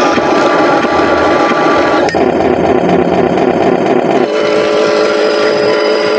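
Electric RC logging truck running, a steady mechanical whine over a noisy rush. The sound changes abruptly twice, about two and four seconds in, ending in a steadier whine.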